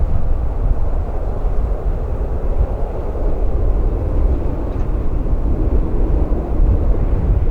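Jet engines of a Boeing 737-800 (CFM56-7B turbofans) running at takeoff power, a steady rumble with strong wind buffeting the microphone.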